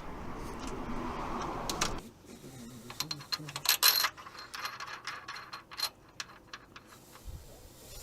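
Metal hand tools at work on the camshaft sprocket bolts of a timing-chain engine: scattered sharp metallic clicks and clinks. A steady noise runs for the first two seconds and stops abruptly.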